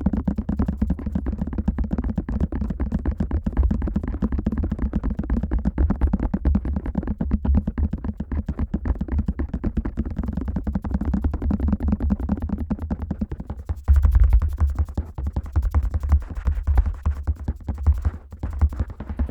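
Fingers tapping rapidly on the ear of a Neumann KU100 dummy-head microphone, a close, muffled stream of deep popping thumps. The taps get louder and sharper about 14 seconds in.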